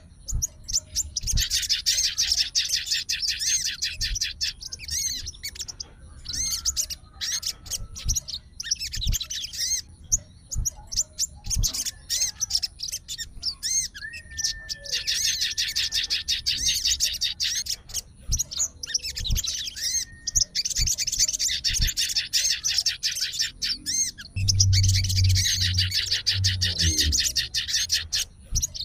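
Sogon songbird singing in long phrases of rapid, high chattering notes, one to three seconds each with short pauses between, the excited calling of a male answering a rival. Low thumps and knocks are heard now and then under the song.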